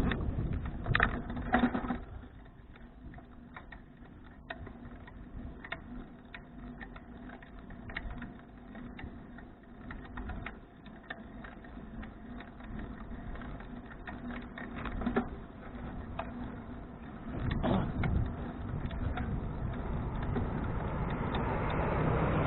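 Bicycle in motion: many small irregular clicks and rattles from the bike over a faint steady hum, with a few heavier bumps. Wind noise on the microphone rises near the end.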